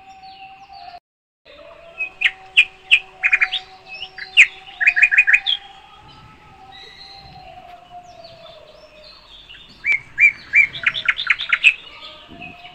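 Birds chirping in two bouts of quick, sharp, high notes, one about two seconds in and another about ten seconds in, over a faint steady tone.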